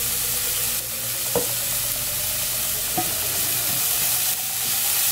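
Chopped onion, garlic and green seasonings sizzling in oil and butter in a nonstick frying pan while a wooden spoon stirs and scrapes through them, with two short knocks along the way.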